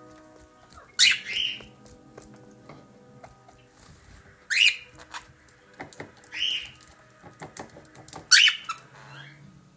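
Blue budgerigar giving short, harsh chirping calls, four loud ones a couple of seconds apart, with a few light clicks in between.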